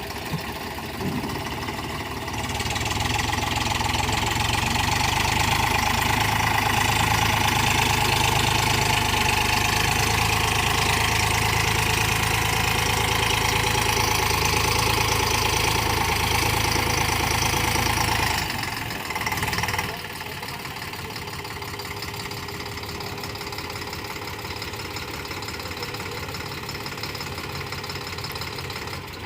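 Farm tractor's diesel engine running hard, straining to pull a loaded trolley stuck in wet mud; it grows louder a couple of seconds in, then drops back about 19 seconds in and runs on at a steadier, quieter idle.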